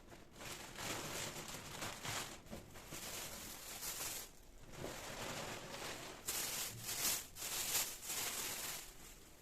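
Rustling and rubbing of fresh garden produce being handled, in irregular swells with louder, crisper crackles between about six and eight seconds in.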